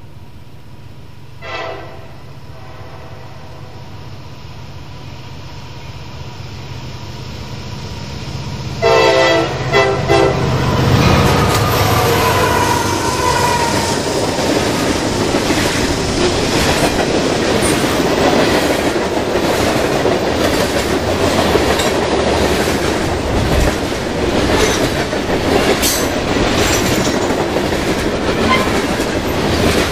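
CSX diesel freight locomotive approaching and passing: a short horn blast about a second and a half in, a rumble that grows, and a louder horn sounding about nine seconds in. The train then runs by, its wheels clicking over rail joints.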